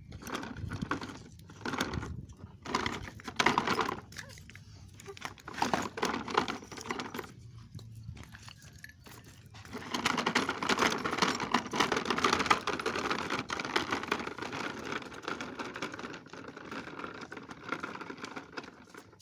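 Toy truck pulled along the floor, its wheels rattling and scraping. It comes in short bursts at first, then runs continuously from about halfway through.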